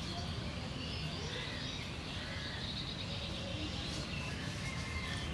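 Outdoor ambience: small birds chirping faintly and intermittently over a steady low background rumble.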